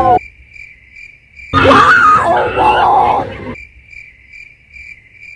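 A person shrieking loudly for about two seconds in the middle, over a steady high chirping pulse that repeats about two to three times a second.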